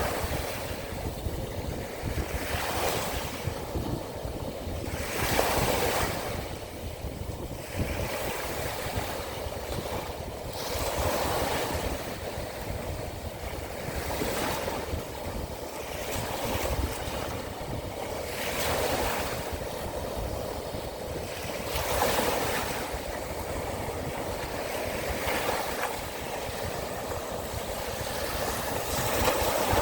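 Small waves of the Sea of Azov breaking and washing onto the shore, a new wash every two to three seconds, with wind rumbling on the microphone.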